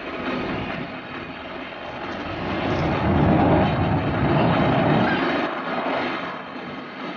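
Eurofighter Typhoon jet with its two EJ200 engines flying past: a rushing jet noise that builds to its loudest about three to five seconds in, then fades away.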